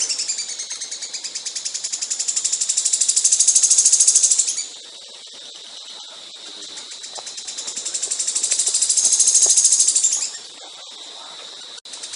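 A songbird sings long, rapid, high-pitched buzzing trills. Each trill swells in loudness and then cuts off abruptly, about four seconds in and again near ten seconds, with a quieter pause between them.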